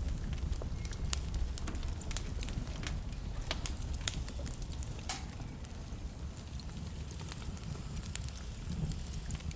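Wood fire burning in a fireplace: burning logs crackling and popping with irregular sharp snaps, over a steady low rumble of the flames. One pop about five seconds in is louder than the rest.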